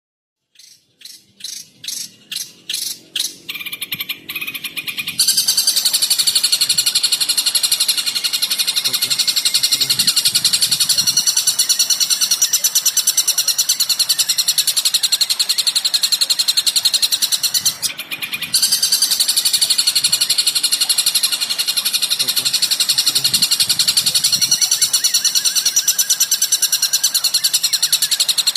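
Recorded bird call for song training: a series of notes that quicken over the first few seconds, then run into a loud, continuous, very rapid high-pitched trill. The trill breaks off briefly partway through, then resumes.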